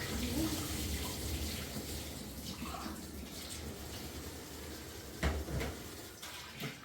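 Water running steadily, with a sharp knock or clatter about five seconds in.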